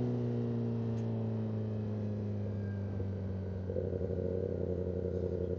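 Kawasaki ZX-10R's inline-four engine running at low revs off the throttle, its pitch easing down slightly over the first few seconds and then holding steady.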